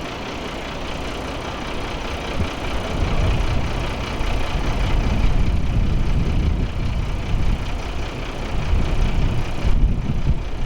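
A vehicle engine running at idle: a low, steady rumble that grows louder about three seconds in.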